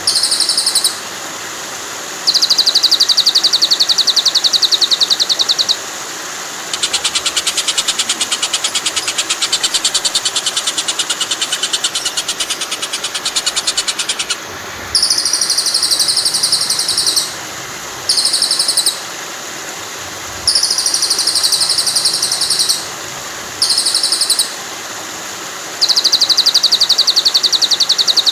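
Recorded songbird song for training a white-rumped shama: short bursts of a fast, high, buzzy trill repeat with brief gaps, and a longer, faster trill runs from about a quarter to half of the way through. A steady rush of flowing water runs underneath.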